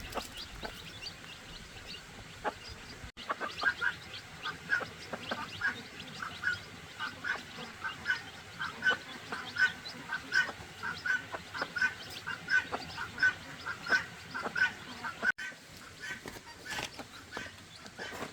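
A flock of domestic waterfowl calling, with a rapid run of short, repeated calls several times a second. The calls are busiest through the middle and thin out near the end.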